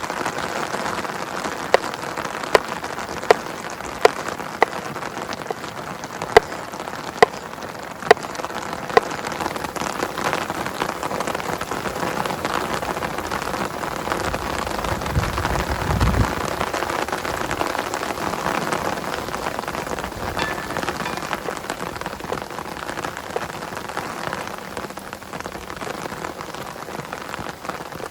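Heavy rain falling steadily, with louder single drops tapping at irregular intervals over the first nine seconds or so. There is a brief low rumble about fifteen seconds in.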